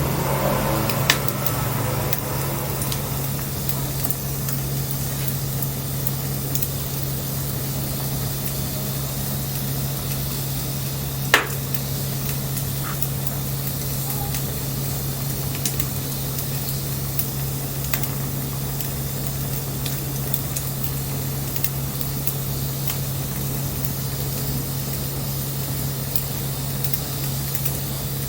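Wood bonfire burning with a steady hiss and a few sharp crackles and pops, the loudest about eleven seconds in, over a steady low hum.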